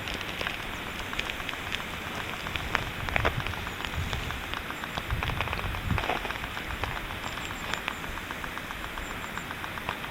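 Steady rush and patter of splashing water with many small ticks of drops, and a couple of low rumbles in the middle.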